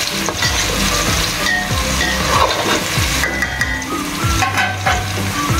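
Sliced okra sizzling as it fries in oil in an aluminium pot, with a few scrapes of a metal spatula stirring it, over light background music.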